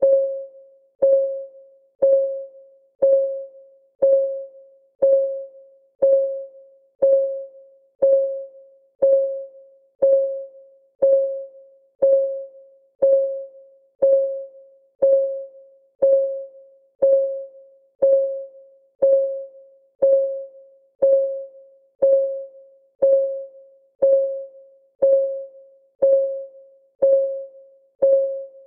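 Countdown timer's ticking sound: one short, clear tone once a second, each fading away quickly, always at the same pitch.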